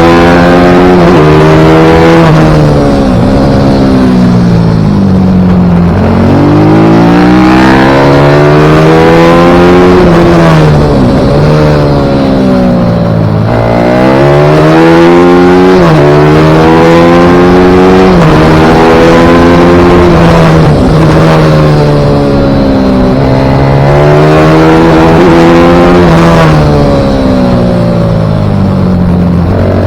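Pit bike engine being ridden hard around a track, revving up through the gears with sudden drops in pitch at each shift, then winding down for the corners, over and over.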